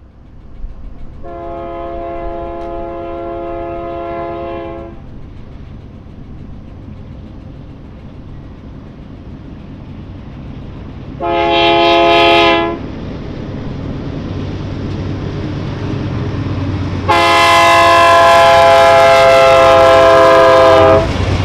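BNSF freight locomotive's multi-tone horn: a long blast, a short blast about eleven seconds in, then a final, loudest long blast. Underneath, the rumble of the train grows steadily louder as it approaches.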